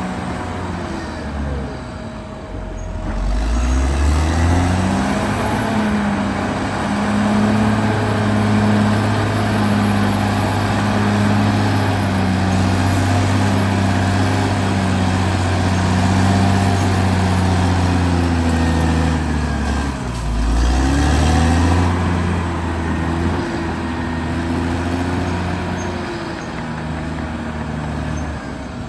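Caterpillar D6R XL bulldozer's diesel engine running hard, its revs dipping about two seconds in and again around twenty seconds, each time climbing back up and holding steady.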